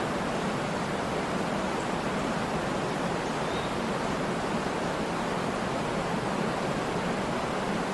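Waterfall: water pouring down onto rocks and into a pool, a steady unbroken rush.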